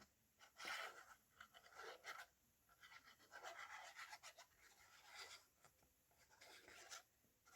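Faint scratching and rubbing on paper in short, irregular strokes, as the edges on three sides of a paper journal pocket are worked.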